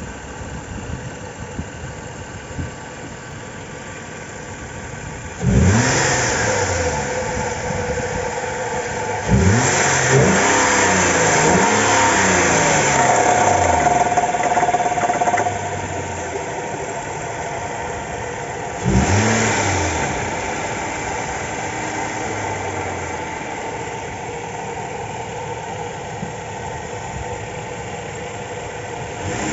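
Car engine idling and being revved: one quick blip about five seconds in, a run of several revs from about nine to fifteen seconds, and another blip near 19 seconds, settling back to idle each time. The engine is being run to show a knocking and crackling noise.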